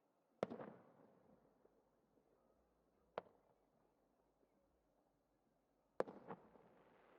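Fireworks shells bursting: a bang about half a second in with a short rumbling tail, a single sharp crack about three seconds in, and two bangs in quick succession near the end, followed by a steady hiss.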